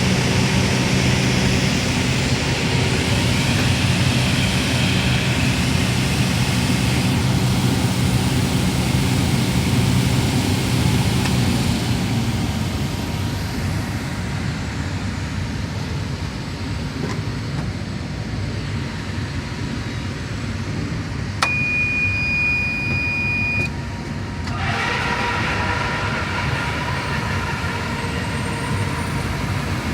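Steady machinery drone with a low hum. About twenty seconds in there is a click, then a steady high tone lasting about two seconds.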